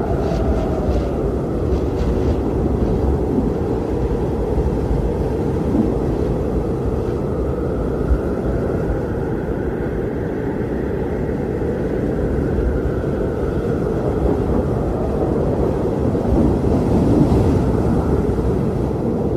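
Strong blizzard wind blowing as a steady low rushing noise, with a faint howling tone that slowly rises and falls. It swells a little near the end.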